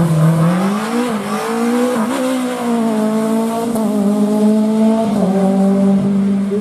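Rally car engine running hard at high revs, the pitch climbing and dipping several times as it drives through the stage.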